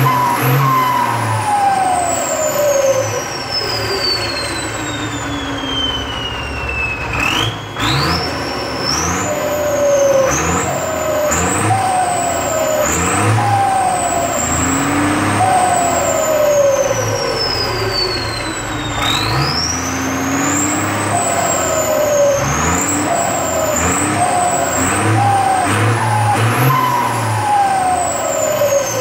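Ford tractor diesel engine with an aftermarket turbocharger being revved in repeated blips, the turbo whistling loudly. The whistle climbs in steps as the engine is blipped and falls away in long slow glides when the throttle is let off.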